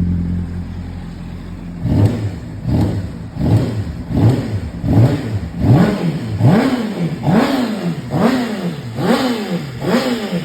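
Honda CBR600RR 599 cc inline-four engine running at a steady speed, then revved in about a dozen quick throttle blips from about two seconds in, one roughly every three-quarters of a second, each rising and falling in pitch. It runs clean, with no ticking or knocking.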